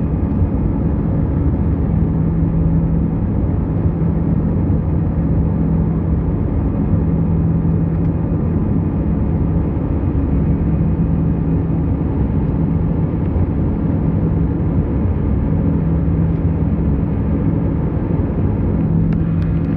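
Airliner's engines and airflow droning steadily during the climb after takeoff, with a low hum that fades in and out every few seconds.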